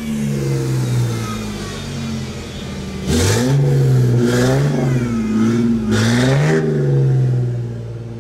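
A car engine being revved: the pitch holds for a few seconds, jumps up sharply about three seconds in and wavers at high revs, then climbs again about six seconds in before easing off.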